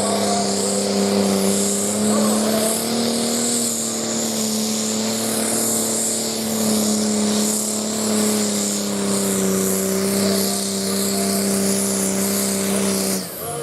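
Diesel tractor engine working hard under full load as it drags the weight transfer sled, a loud, steady, near-constant note. It cuts off suddenly near the end.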